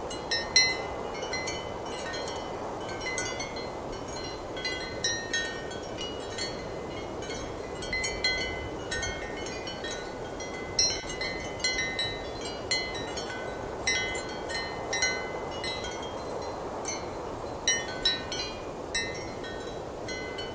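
Ceramic wind chimes clinking at irregular moments, sometimes several strikes close together, each ringing briefly, over a steady rush of strong wind.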